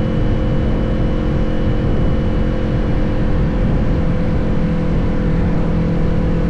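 Motorcycle engine running at a steady riding speed, under heavy wind rush on the microphone. The engine note drops slightly about four seconds in.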